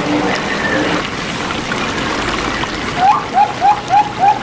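Zebra dove (perkutut) cooing: a rapid series of short, upward-hooked notes, about four a second, starting about three seconds in. Before the notes start there is a steady trickling of water.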